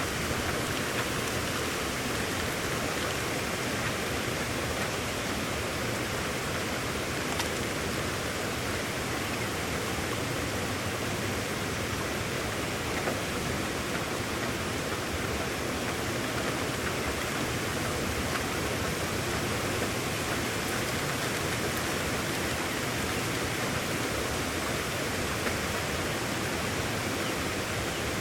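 Steady rain, an even, unbroken hiss with a few faint ticks.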